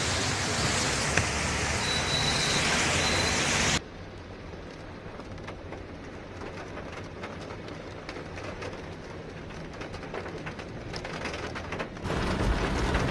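Heavy rain falling, a steady rushing hiss. About four seconds in it cuts abruptly to a quieter patter with fine drop ticks, then turns loud again near the end.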